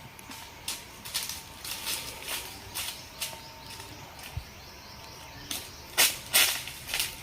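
Dry leaves and twigs crunching and crackling in irregular snaps, loudest twice about six seconds in, over a faint steady high tone.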